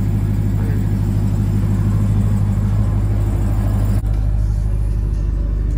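Jeep Grand Cherokee Trackhawk's supercharged 6.2-litre V8 idling with a steady, deep rumble.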